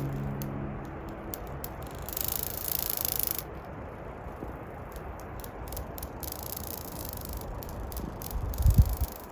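Footsteps crunching and scraping on a rocky trail, with short clicks and rattles and a steady outdoor hiss, and a couple of low thumps near the end. The last held notes of a music track fade out in the first second or so.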